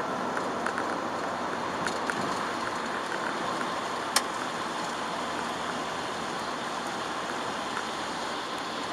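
Chevrolet Aveo driving in the rain, heard inside the cabin: a steady hiss of rain and tyres on the wet road, with scattered ticks of drops and one sharp click about four seconds in.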